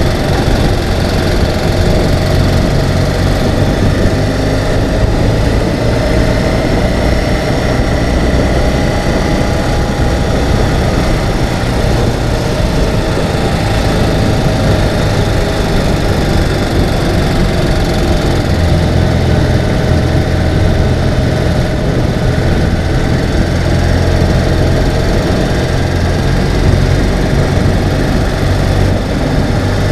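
Ural sidecar motorcycle's flat-twin engine running under way, a loud, steady low drone with slight drifts in pitch.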